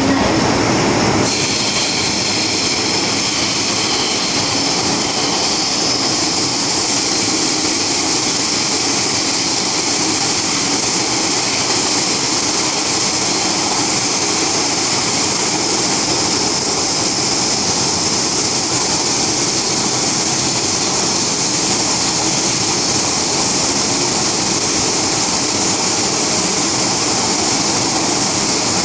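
MTR M-Train electric metro train running at speed, heard from inside the car as a steady rush of running noise. A louder mix of sound drops away about a second in, and the noise stays even after that.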